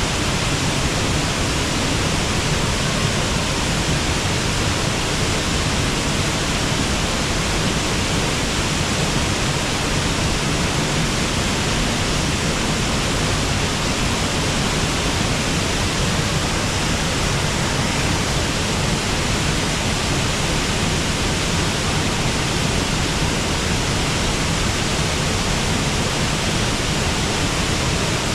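Waterfall on a river, water rushing and churning steadily without a break.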